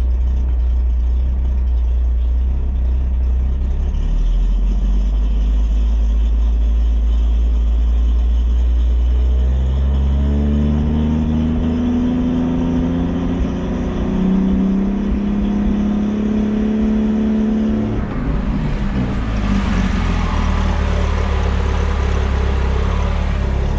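Ramp truck's engine running, with a low steady rumble; about ten seconds in its note rises and holds as it pulls, then gives way to a rushing noise over the last few seconds.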